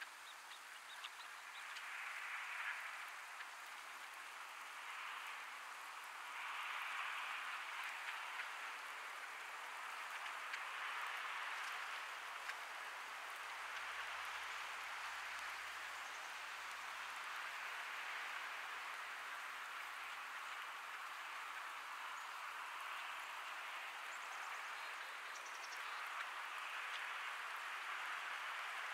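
Light rain falling: an even hiss that swells and fades every few seconds.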